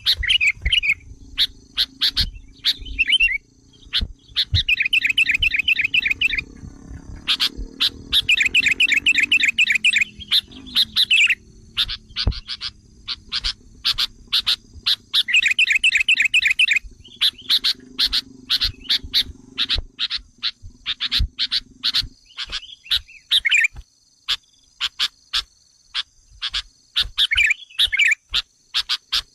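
Sooty-headed bulbul (kutilang) calling agitatedly in a bird-lure recording: many short sharp calls, with several runs of rapid chattering trill lasting a second or two each. A steady high-pitched whine sits underneath.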